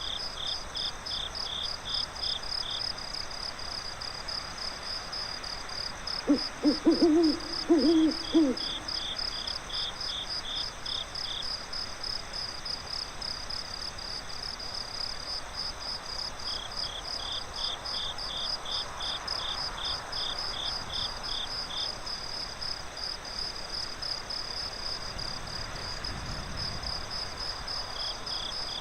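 Night forest ambience: crickets chirping steadily in fast, even pulses, with a second, lower insect chirping in bouts every several seconds. A little over six seconds in, an owl gives a quick series of low hoots, the loudest sound.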